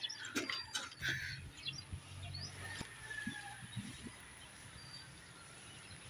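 Birds chirping and calling in short scattered notes over a faint steady background, with a few light knocks in the first second or so.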